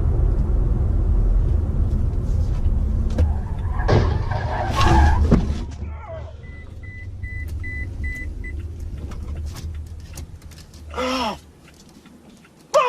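Car road and engine rumble heard from inside a vehicle, with a louder noisy burst about four to five seconds in. After the rumble drops away, a car's warning beeper sounds about six short, even high beeps, and a brief voice-like sound follows near the end.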